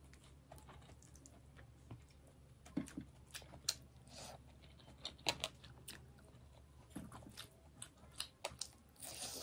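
A person chewing fish curry: faint, irregular clicks and smacks of the mouth.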